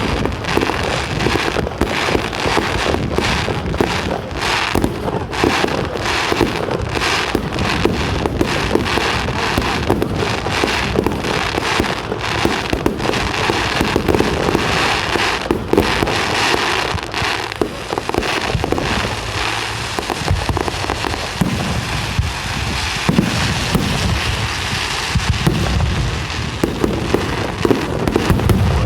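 Fireworks display finale: a rapid, unbroken barrage of bangs and crackling from many fireworks going off in quick succession.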